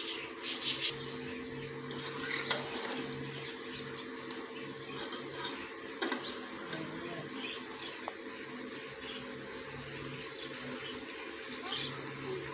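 Black chickpeas frying in ghee in an aluminium pressure-cooker pot, a steady sizzle, with a steel ladle scraping and clinking against the pot a few times, most of them just after the start.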